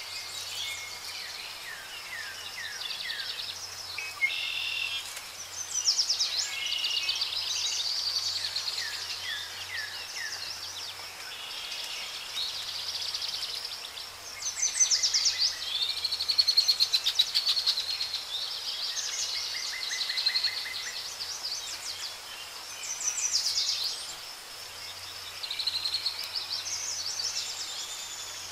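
A chorus of songbirds, several chirping and trilling at once, the calls overlapping and swelling and fading by turns.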